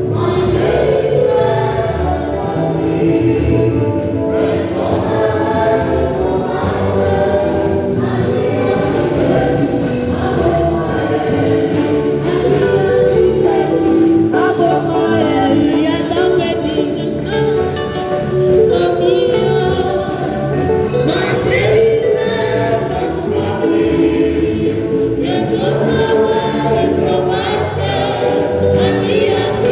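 A choir singing a gospel praise song with accompaniment, continuous and steady in loudness.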